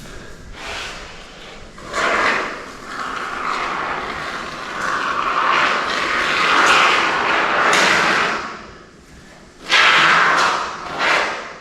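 Aerosol expanding spray foam hissing out of the can in spurts, with one long spray in the middle and shorter ones about two seconds in and near the end, along with a few knocks from handling.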